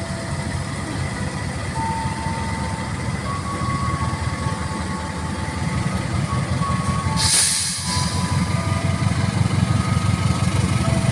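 Diesel-electric locomotive pulling a passenger train slowly away from the station: a steady low engine rumble, with brief high squeals from the wheels and a short loud hiss about seven seconds in.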